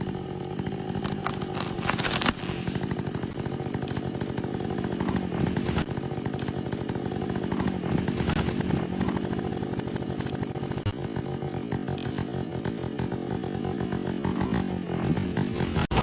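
Two-stroke chainsaw running at high revs, its pitch wavering up and down as it cuts into a tree.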